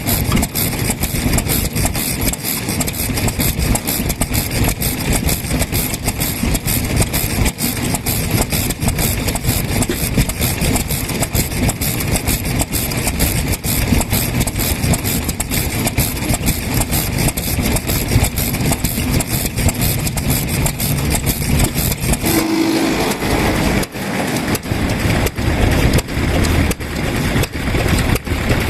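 Vintage Japanese kerosene stationary engine running with a rapid, even exhaust beat. The sound changes abruptly about 22 seconds in.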